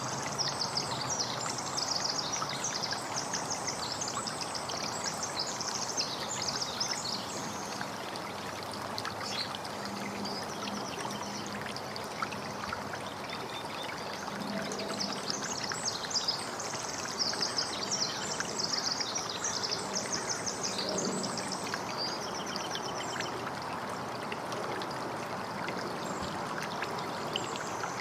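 Steady running water, with small birds chirping in rapid high trills, in spells at the start, through the middle and briefly near the end.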